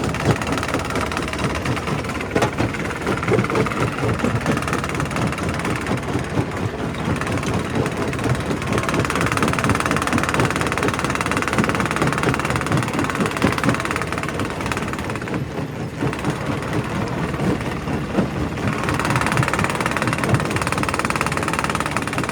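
Primary rock crusher running, with a steady mechanical din and a constant, irregular clatter of rock knocking and grinding as it is broken.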